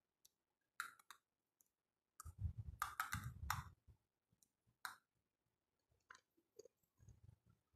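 Quiet eating sounds: scattered wet mouth clicks and smacks from chewing rice and curry eaten by hand. They bunch together with some soft low thumps between about two and four seconds in.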